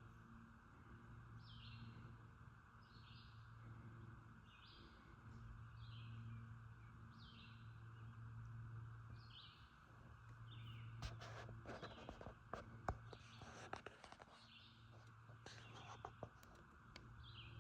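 Faint outdoor quiet with a bird giving short, repeated chirps about once a second, over a low steady hum that fades in and out. A few faint clicks and knocks come about two thirds of the way through.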